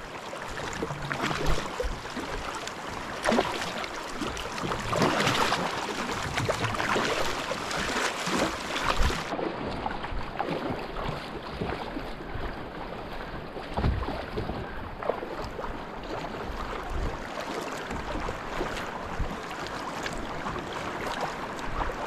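Footsteps and rustling of someone walking through brush along a river, with wind buffeting the microphone: irregular crunches, knocks and scuffs.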